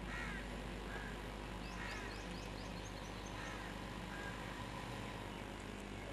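Birds chirping: scattered short calls, with a quick run of about eight high notes about two seconds in, over a steady low hum.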